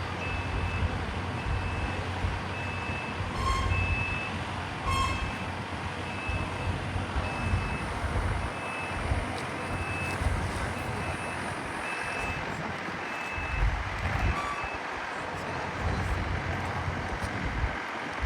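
A vehicle's reversing alarm beeping at one high pitch, just under two beeps a second, over a steady low rumble; the beeping stops about three-quarters of the way through.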